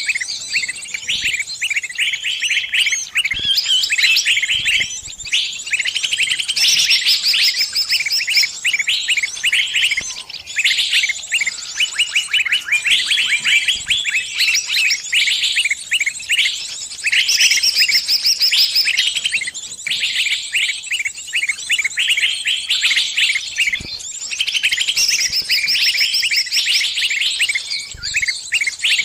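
A small bird giving rapid, high, chattering chirps almost without pause: the distress calls of a trapped bird calling others of its kind for help.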